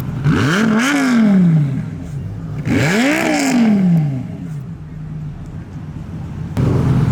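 A Lamborghini engine revved twice, each rev climbing and then falling away over about a second and a half. Near the end a steady low engine rumble comes in loudly.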